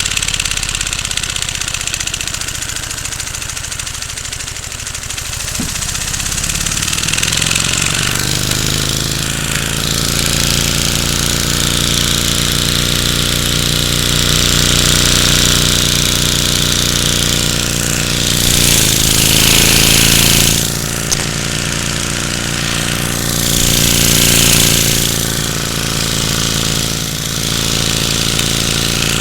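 LEGO single-cylinder vacuum engine running with a big flywheel, a fast mechanical chatter with a steady hum. About five seconds in, its pitch climbs as it speeds up, then holds. Louder rushes of air come in twice later on.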